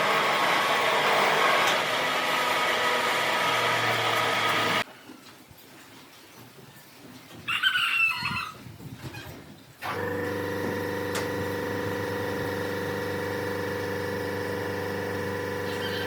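A workshop power tool runs loudly and stops abruptly about five seconds in. After a quieter pause with a brief wavering high-pitched call, a different machine starts about ten seconds in and runs with a steady even hum.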